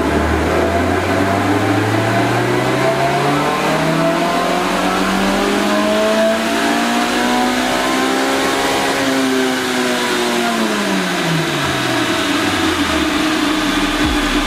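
Toyota Blacktop 20-valve 4A-GE four-cylinder engine making a full-throttle pull on a chassis dyno, breathing through a V1 2-1 front pipe and the stock exhaust. The revs climb steadily for about nine seconds, then fall away over the next four as it is let off.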